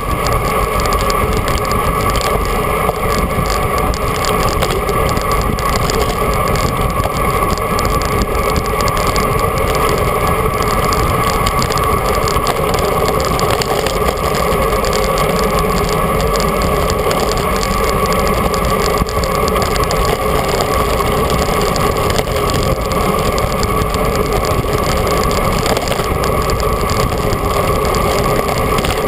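Steady rushing wind and road noise on a GoPro carried on a moving road bike, unbroken throughout.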